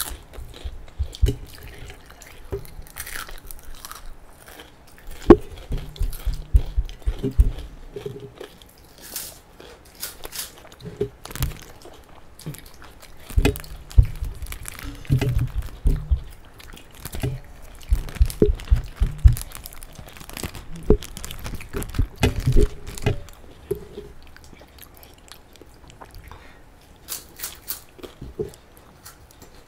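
Close-miked eating sounds of two people eating rice by hand and biting into cream pastry: bursts of quick, rhythmic chewing with sharp mouth clicks in between.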